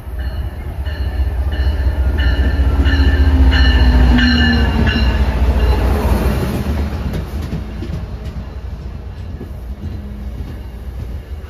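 MBTA diesel commuter locomotive and bilevel coaches rolling past at close range. The locomotive's bell rings about twice a second as it comes in, and the engine note drops in pitch as it passes about four seconds in. After that the coaches' wheels rumble by more quietly.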